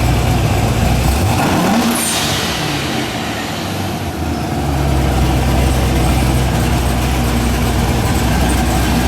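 Car engine running at low speed under load, revving up about a second in, then settling back to a steady low drone as the vehicle tries to creep over a speed bump.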